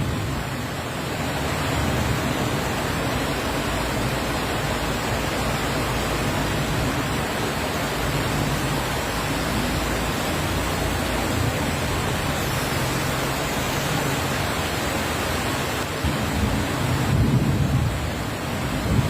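Dense, steady noise of heavy rain, with a low rumbling swell near the end.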